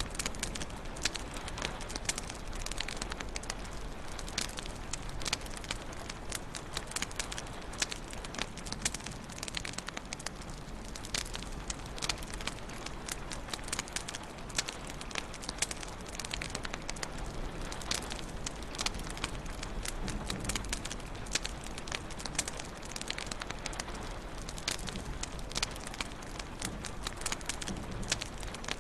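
Wood fire in a fireplace crackling steadily, with frequent sharp pops and snaps over a soft hiss.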